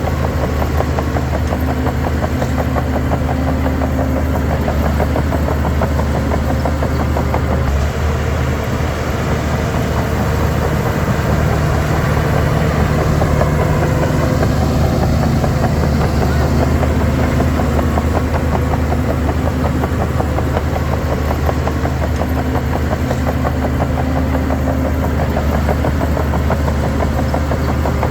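Heavy diesel engine of earthmoving machinery running steadily, its pitch and loudness shifting a little about halfway through.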